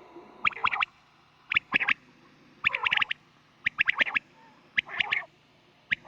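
Quail calling over and over, about once a second, each call a quick run of three or four sharp notes.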